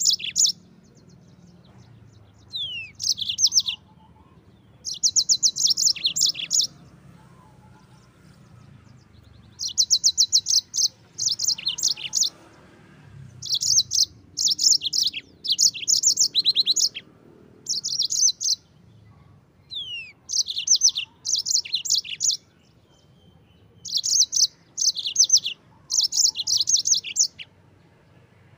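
Yellow-fronted canary (Mozambique canary) singing: phrases of rapid, high, trilled notes a second or two long, repeated after short pauses, a few of them opening with a quick falling slur.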